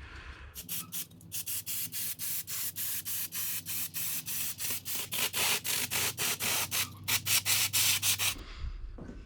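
Rhythmic scrubbing strokes, about three a second, over a steady low hum; both start about half a second in and stop together about eight seconds in.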